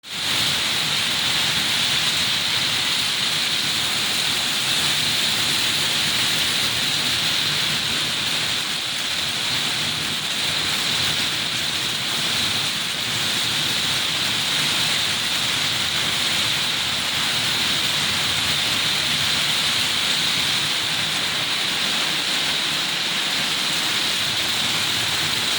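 Steady heavy rain falling, an even hiss that holds constant throughout.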